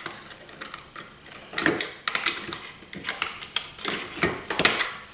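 Irregular clicks, knocks and short scrapes of metal parts being handled as a cut-open boiler pump motor housing is spread apart by hand, with a louder scraping stretch about two seconds in and another near four seconds in.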